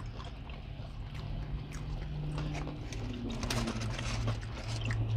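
Two people chewing mouthfuls of fried fish sandwich: soft, scattered mouth clicks and smacks over a low steady hum.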